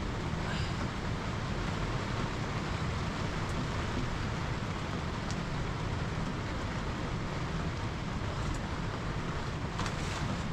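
Steady rain: a constant hiss over a low rumble, with a few faint clicks.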